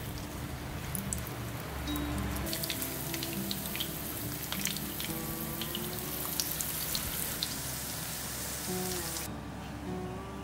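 Food sizzling as it fries in hot oil, a steady hiss with scattered sharp crackles that cuts off abruptly near the end. Background guitar music plays underneath.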